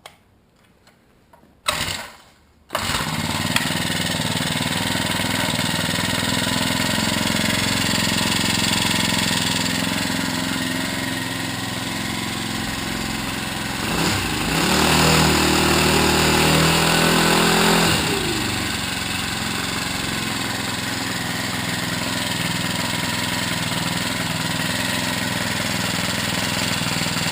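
Honda GX31 31cc four-stroke engine on a Staton friction-drive bicycle kit starting: a short burst, then it catches about three seconds in and runs steadily. It is revved up for a few seconds midway, then drops back to a steady run.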